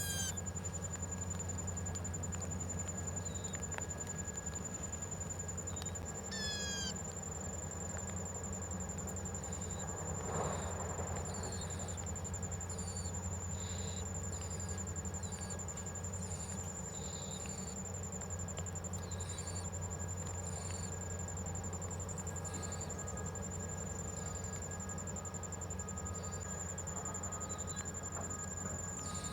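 Outdoor insect chorus: a steady high, cricket-like drone, with short high chirps repeating about once a second and two quick runs of falling notes, over a low steady hum.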